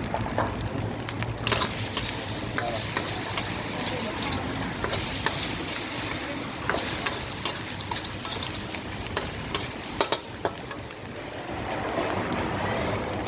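Tom yum seafood fried rice being stir-fried in a hot pan. The oil sizzles steadily while a utensil scrapes and knocks against the pan in frequent sharp clicks.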